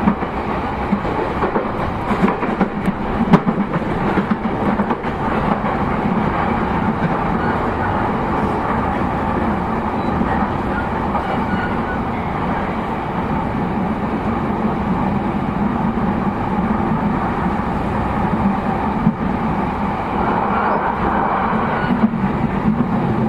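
JR East E233-0 series electric commuter train running, heard from inside its motor car: a steady rumble of traction motors and wheels on rail. A few light clicks from the rails come in the first few seconds.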